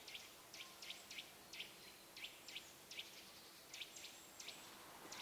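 Faint birdsong: short, high chirps repeated irregularly, two or three a second.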